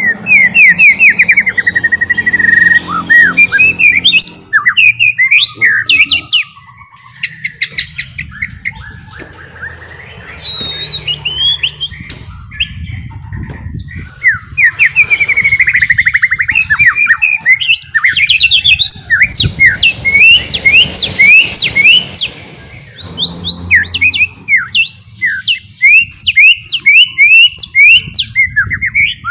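White-rumped shama (murai batu) singing loudly in fast chattering runs of short, sharp whistled notes, the 'ngeriwik' style, broken by brief pauses.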